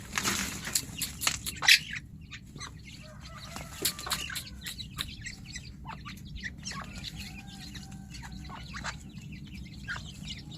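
Grey francolins and their chicks making soft clucking calls and faint short peeps. A quick run of sharp clicks and rustles is loudest in the first two seconds, with scattered clicks after.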